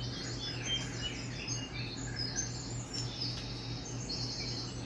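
A small bird chirping and singing rapid high trills throughout, over a steady low electrical hum.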